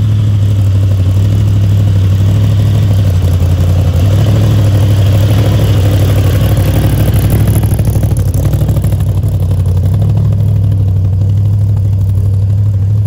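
Supercharged hot-rod engine with a roots-type blower running loud and steady as the car moves off at low speed, its note swelling in the middle as it is given a little throttle.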